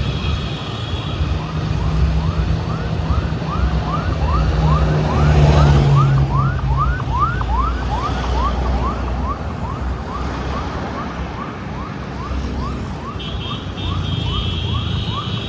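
Motorbike engine running with road and wind noise, over a siren yelping: a rising whoop repeated about two to three times a second that keeps going to the end.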